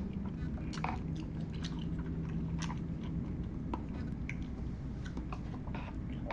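Close-miked chewing of a mouthful of instant hot pot food: wet mouth clicks and smacks at irregular intervals.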